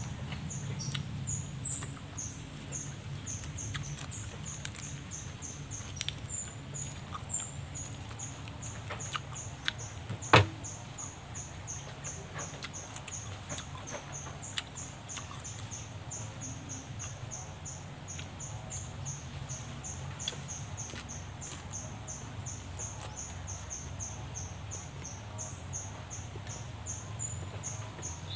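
Close-up eating sounds: chewing, with small clicks and mouth smacks over roasted fish and fresh greens, and one sharp click about ten seconds in. Behind them a high chirping repeats steadily about five times a second.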